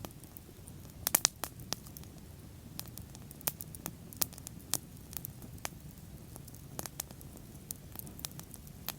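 Wood fire burning: irregular sharp crackles and pops over a low steady rumble of the flames, with a quick cluster of louder pops about a second in.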